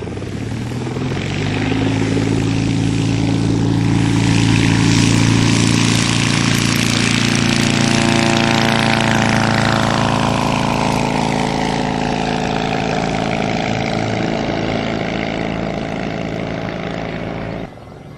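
Propeller airplane flying past: its engine note builds over the first few seconds, then falls in pitch as it goes by, and the sound cuts off suddenly near the end.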